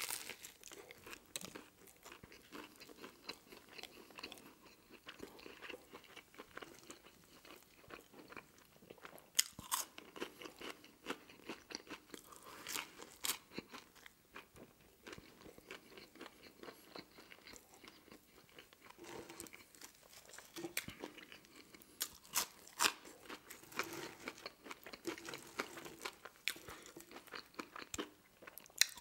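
A person chewing a mouthful of Persian pizza sandwich close to the microphone, with scattered crisp crunches throughout and a few sharper ones. Near the end a french fry is bitten.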